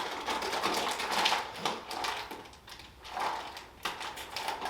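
Plastic snack packaging crinkling and rustling as it is handled and opened, a dense run of irregular crackles.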